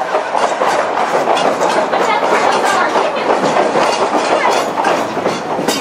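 Durango & Silverton narrow-gauge train rolling along the track, heard from aboard: a steady rumble of wheels on rail with many irregular clicks over the joints.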